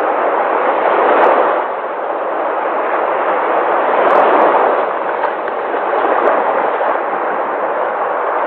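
Sea waves in a steady rush of noise that swells twice, once about a second in and again around four seconds.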